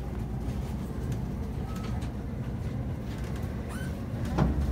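Low, steady running rumble of a passenger train, heard from inside the moving carriage. A short rising sound comes near the end.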